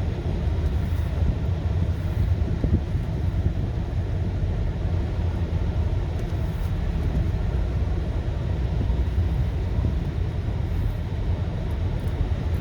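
Steady low rumble of a car's engine and tyres heard inside the cabin while driving slowly in traffic.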